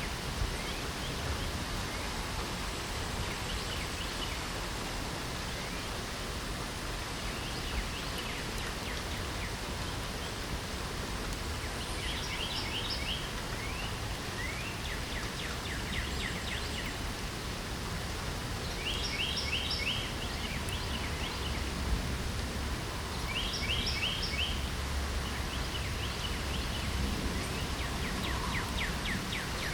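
Steady hiss of rain with a songbird singing short, rapid trilled phrases. The phrases are faint at first, then clearer and repeated every few seconds from about halfway.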